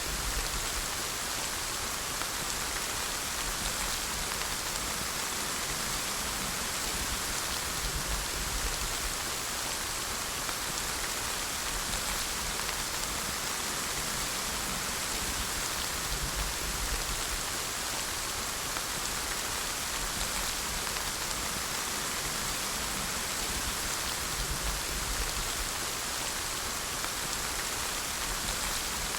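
Steady rain falling, an even hiss of many drops on surfaces with no pauses or changes.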